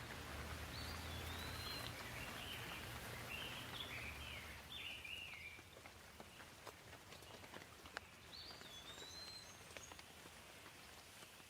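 Gentle rain falling with scattered sharper drips, one striking about eight seconds in. A bird chirps in short runs of rising and falling notes through the first half and again near the end. A low hum underneath fades out about halfway.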